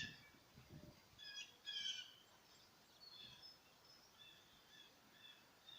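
Faint bird calls: a brief group of harsh, high calls about a second in, then fainter short calls repeating.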